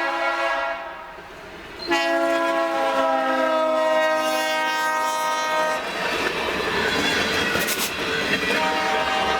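Freight locomotive's multi-chime air horn: a chord that fades out about a second in, then a long blast from about two seconds in that slides slightly down in pitch and stops near six seconds. After it come the rumble and clatter of the train rolling past, with a sharp metallic clank near the eight-second mark.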